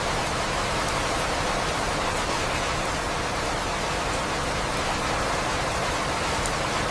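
Steady rain, falling evenly as a continuous hiss with no change in strength.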